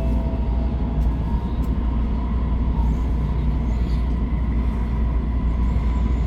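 Steady low rumble of a Shinkansen train running at speed, heard from inside the passenger car.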